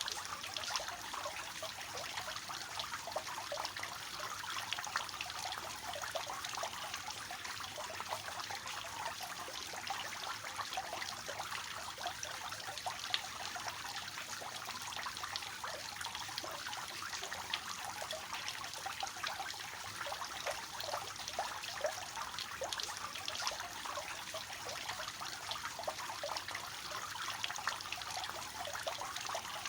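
Water falling from the tiers of a three-tiered fountain, a steady splashing trickle with many small splashes.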